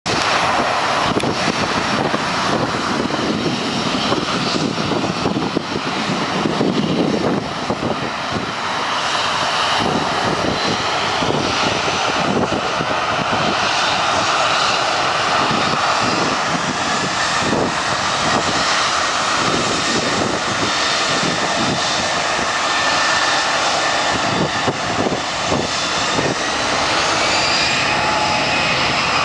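Boeing 737-500's twin CFM56-3 turbofan engines at takeoff thrust: a loud, steady jet noise with a high whine that rises in pitch near the end.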